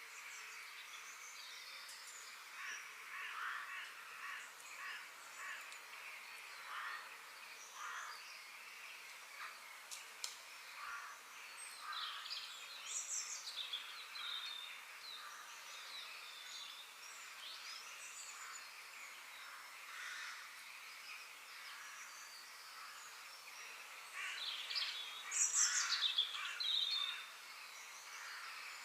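Birds chirping and calling in short, scattered notes, with a louder burst of quick sweeping calls near the end.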